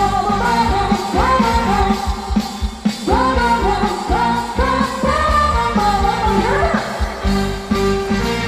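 Live band music in a pop-rock style, with steady drums and bass under a lead melody that slides up into its notes.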